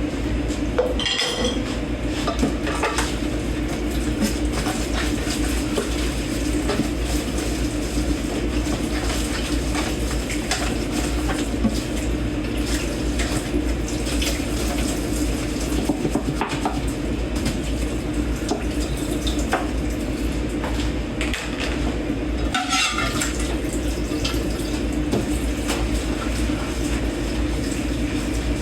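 Dishes being washed by hand in a kitchen sink under running tap water: cutlery and dishes clinking and clattering against each other over a steady rush of water.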